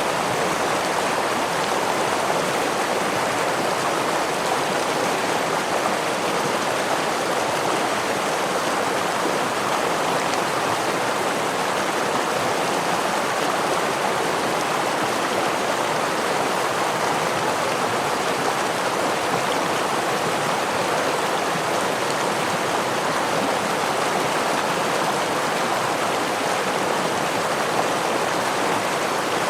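A forest stream rushing over a small waterfall, a steady, unbroken water noise.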